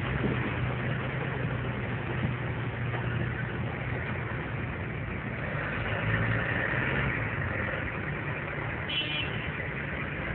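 A motor-vehicle engine running steadily with a low hum under a constant rushing noise, and a short high tone about nine seconds in.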